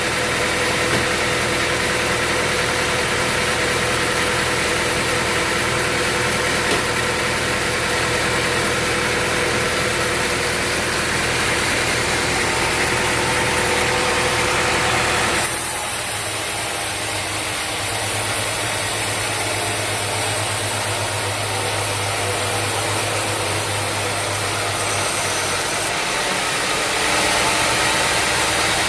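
Sawmill machinery running steadily, a constant mechanical drone. About halfway through, the sound changes abruptly to a different steady drone.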